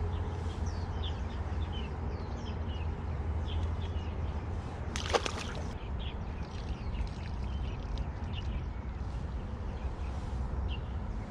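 Small birds chirping now and then over a steady low background rumble at the riverside, with a brief rustle about five seconds in.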